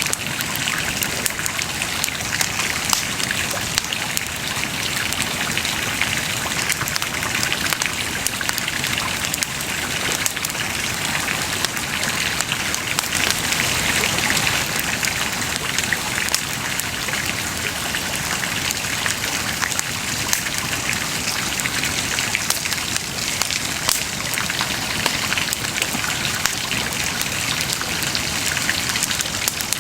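Wood bonfire burning: a steady hiss dense with many small crackles and pops.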